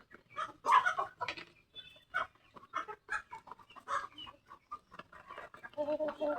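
Bangkok chickens clucking: many short, irregular clucks, with a longer, held call near the end.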